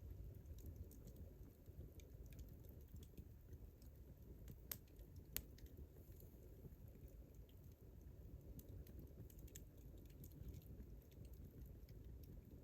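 Wood campfire crackling faintly: scattered small clicks over a low steady rumble, with two sharper pops about five seconds in.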